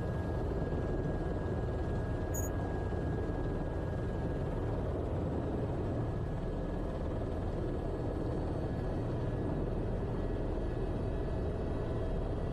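Airbus H130 T2 helicopter running steadily on the ground before liftoff: the single Arriel 2D turboshaft and rotor give a deep, even drone with faint steady whining tones above it. There is a brief high click about two seconds in.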